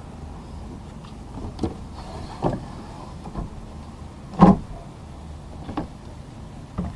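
A steady low rumble with six irregular knocks and thumps over it, the loudest about halfway through.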